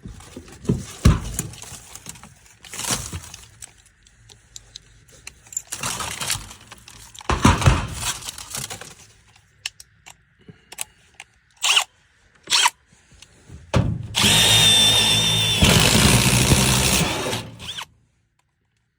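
Power drill with a step bit boring a starter hole in the sheet-metal side of a gas furnace: knocks and short stretches of handling and drilling, then a loud steady run of about four seconds with a motor whine that stops near the end.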